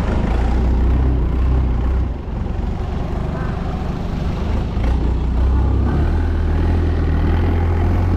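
Small boat's engine running steadily, with a heavy low rumble, while the boat is under way.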